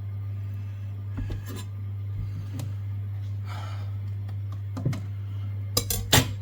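Kitchen knife chopping vegetables on a chopping board: a few scattered knocks, then a quick run of louder chops near the end, over a steady low hum.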